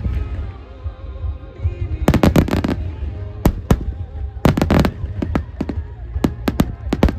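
Aerial fireworks shells bursting in quick volleys of sharp bangs, several in a row in each cluster, over a steady low rumble.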